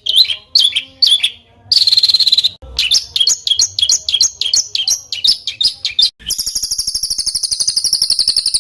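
Songbird singing harsh, repeated 'shot' notes and a short rasping buzz, then a quicker run of notes. About six seconds in it breaks into a very fast, tight trill of roughly a dozen notes a second (the 'roll rapat'). This is song played as a master track for training competition songbirds.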